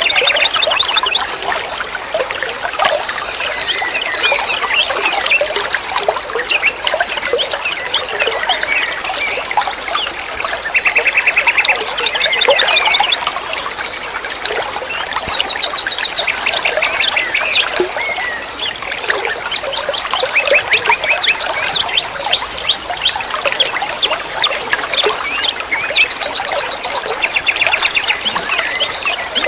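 Songbird singing a continuous, varied chattering song of quick notes, broken every few seconds by fast buzzy trills.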